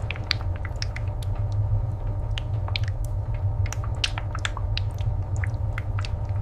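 Low steady machine rumble with a faint hum, overlaid by many scattered, irregular small clicks and crackles.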